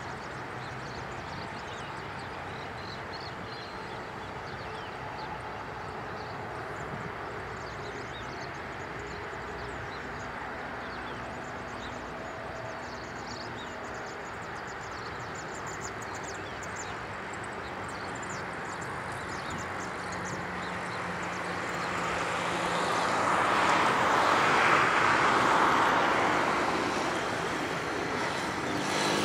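Jet engine noise from a Boeing 747-8F freighter and its four turbofans, a steady rushing sound with a faint whine. It grows slowly louder and peaks about three-quarters of the way through as the aircraft passes, then eases a little.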